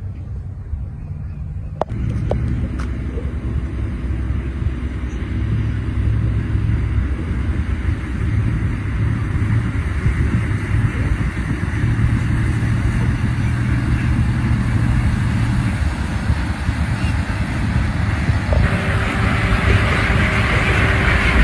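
A motor engine running steadily with a low hum. It grows a little louder about two seconds in, and near the end a brighter rushing hiss joins it.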